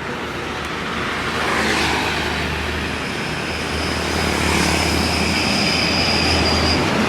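Mitsubishi Fuso truck's diesel engine running steadily under a wash of road noise, with a thin high whine about halfway through.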